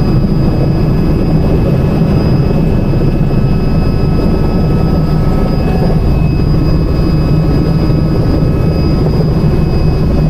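Helicopter's turbine engine and rotor running steadily in flight, heard from inside the cabin: a loud, even low rumble with a faint steady high whine over it.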